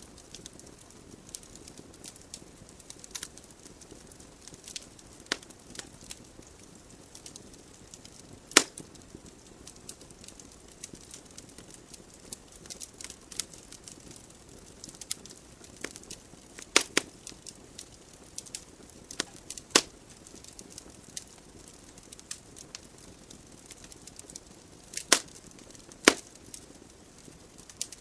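Wood logs burning in a fireplace: a steady soft hiss under frequent small crackles, with about five louder sharp pops spread through, two of them close together near the end.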